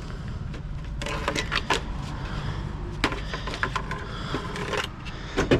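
Scrap pieces being handled and sorted: irregular clicks, knocks and light rattling of hard parts, over a steady low hum.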